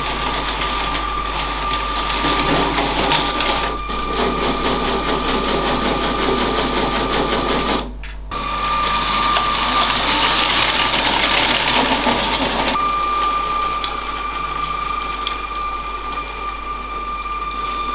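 Toy LEGO train's small electric motor running with a steady whine, with the wheels rattling along plastic track. The sound drops out briefly about eight seconds in.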